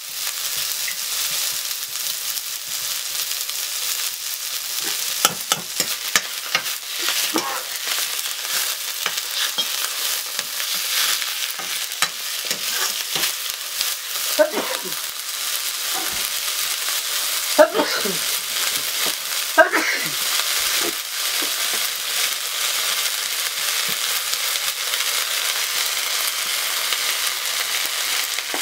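Leafy greens sizzling in a black iron wok over a wood fire while being stirred with a ladle. Several short scrapes and knocks of the ladle against the pan come through in the middle.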